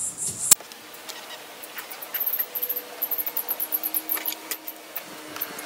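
A sharp click about half a second in, then scattered light clicks and taps, with faint short high-pitched chirps from a cricket.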